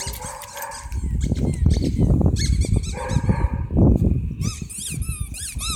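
Dog whining in repeated high squeaks, over a low rumbling noise.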